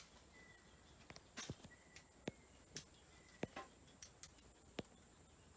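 Near silence, broken by about eight faint, sharp clicks and taps scattered through it.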